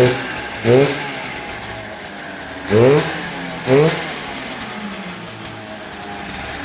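Snowmobile engine in a go-kart running after a pull start, revved in four quick throttle blips that rise sharply in pitch and fall back to a steady idle: two at the start and two about three seconds in.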